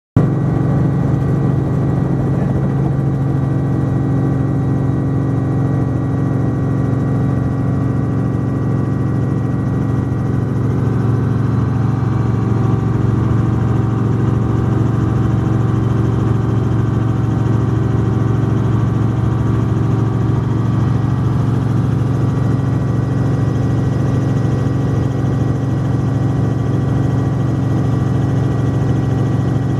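Helicopter engine and rotor running steadily, heard from inside the cabin, with a constant low hum and several steady higher tones over it.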